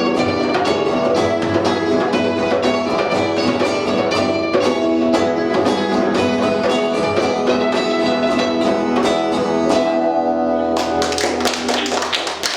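Punk band playing live, guitar-driven, with a steady beat of even strokes. About two seconds before the end the song stops and gives way to a noisy wash with sharp hits.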